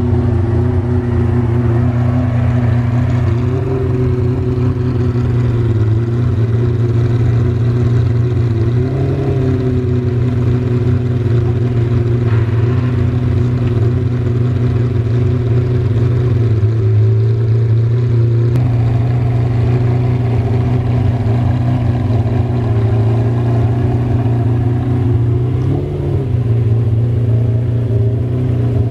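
McLaren F1 LM's BMW V12 engine idling steadily as the car creeps along at walking pace, with a few light throttle blips.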